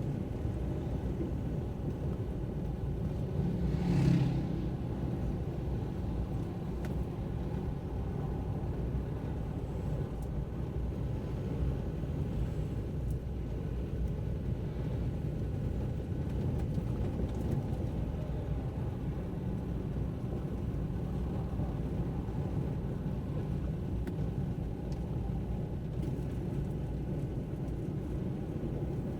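Car driving: a steady low road and engine rumble, with a brief louder thump about four seconds in.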